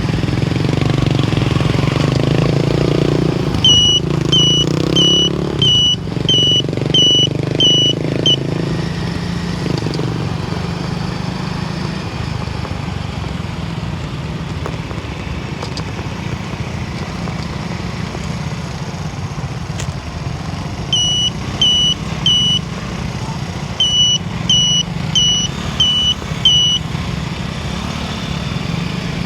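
Steady engine and road noise of a vehicle driving along a road. Two runs of short high electronic beeps come about twice a second, one several seconds in and another near the end.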